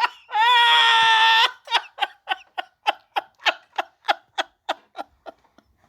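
Laughter: a long, high held note about half a second in, then a run of short even laughs, about four a second, that fade away.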